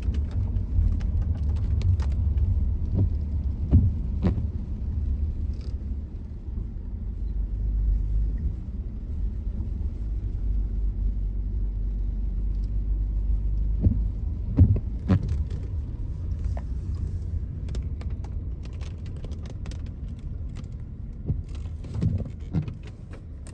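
Car driving along a road, heard from inside: a steady low road and engine rumble, with scattered knocks and rattles, several close together about two-thirds of the way in.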